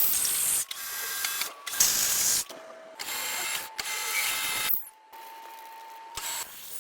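Metal lathe machining: hissy cutting noise over a steady motor whine, stopping and starting abruptly several times.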